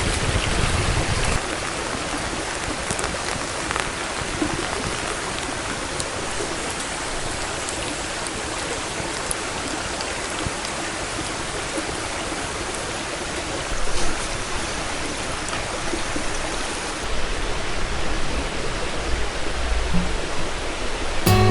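Steady rushing noise of water, with a low rumble that dies away about a second in.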